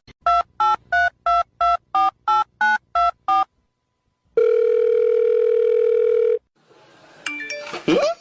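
Telephone keypad touch tones: ten quick beeps, each a pair of tones, about three a second, as a number is dialled. After a short pause comes one steady tone lasting about two seconds, and brief sounds just before the end.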